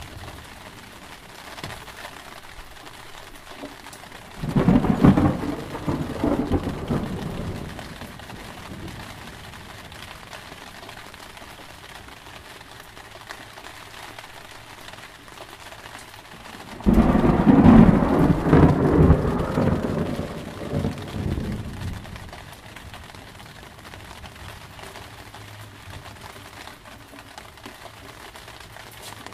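Steady rain with two claps of thunder, one about four seconds in and a louder one about seventeen seconds in, each rumbling away over several seconds.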